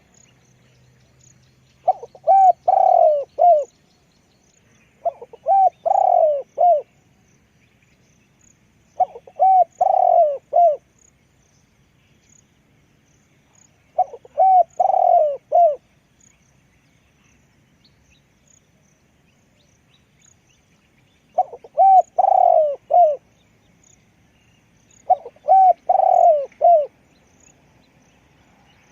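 Spotted dove cooing: six phrases of several quick hooting notes, each phrase about one and a half seconds long, repeated every few seconds.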